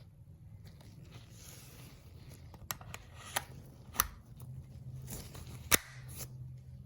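Hands working an Umarex Glock 19 CO2 BB pistol: rustling and scraping with four sharp clicks, the loudest near the end.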